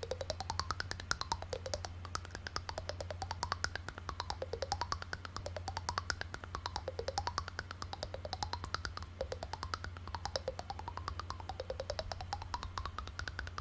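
A rapid, even clicking with a tone that slides up and down about once a second, over a steady low hum.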